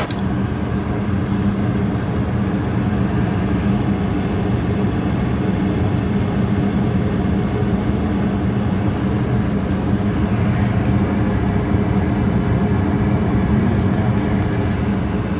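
Goodman gas furnace running while firing, a steady mechanical noise with a low hum that does not change.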